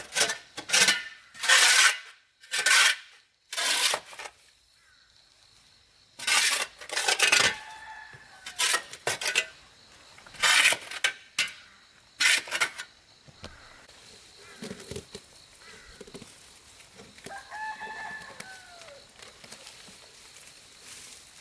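Short rasping strokes, about one a second with a pause after the first few, followed near the end by a rooster crowing once.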